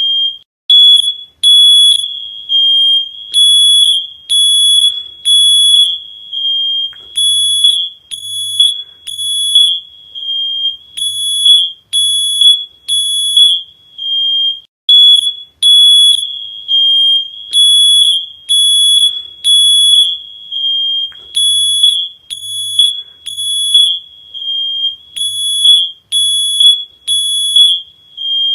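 Shrill electronic alarm beeping over and over on one steady high pitch, about once a second.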